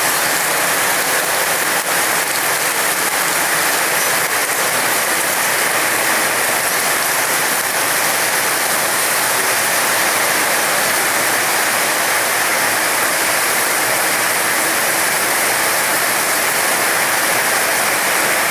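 Heavy rain falling steadily, a loud, even downpour hiss.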